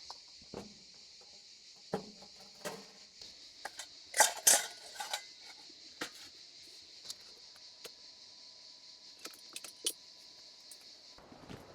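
Scattered clinks and knocks of cutlery and dishes being handled, with a few louder clattering knocks about four seconds in, over a steady high hiss that cuts off near the end.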